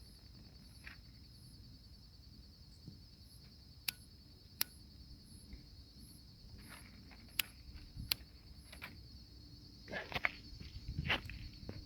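Crickets trilling steadily at night, with a fainter chirp repeating about twice a second. Scattered sharp clicks and a short burst of rustling and knocking near the end, from the fire-lighting being handled close by.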